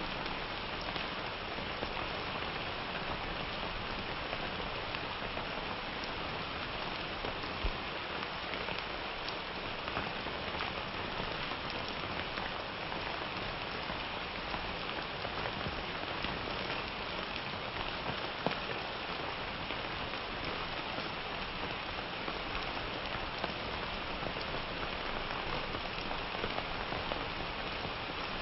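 Steady summer rain falling on a surface: an even hiss of rainfall with scattered sharper drops ticking here and there.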